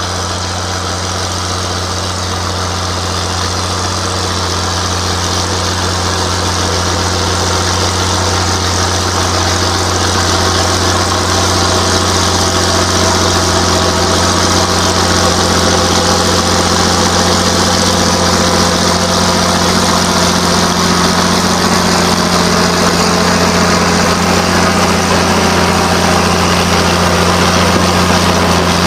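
Ford TW-15 tractor's diesel engine running steadily at a low, even speed with a constant deep hum. It grows slightly louder over the first ten seconds or so, then holds.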